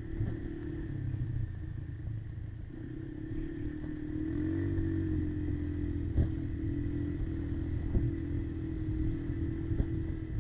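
Kymco Maxxer 300 quad's single-cylinder engine running at a steady pace, its pitch rising briefly about halfway through, with a few short sharp knocks in the second half.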